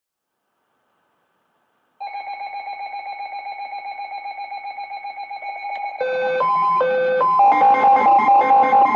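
Electronic alert tones of an Emergency Alert System broadcast. About two seconds in, a rapidly pulsing steady tone starts; from about six seconds in it gets louder and changes to a repeating pattern of alternating higher and lower beeps.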